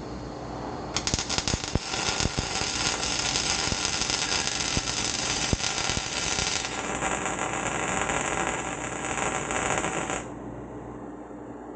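Electric welder arc crackling steadily while welding exhaust pipe. It starts about a second in and stops abruptly near the end.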